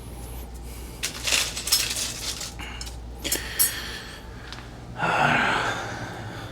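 Rustling and light knocking from handling garden pots and debris, with two small clicks just after the middle, and a breathy rush of noise lasting about a second near the end.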